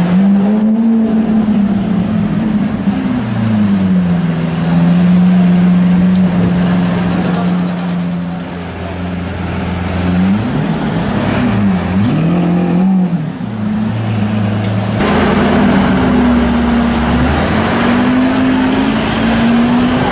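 Lamborghini Aventador's V12 running in slow traffic, its note mostly steady, then blipped up and down a few times from about ten to thirteen seconds in. About fifteen seconds in the sound cuts abruptly to another engine at a steadier, slightly higher note.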